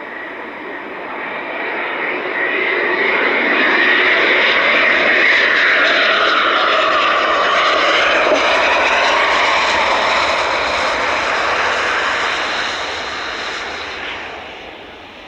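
Aircraft flying past: its engine noise builds over a few seconds, holds loud, then fades away, with the pitch dropping as it passes.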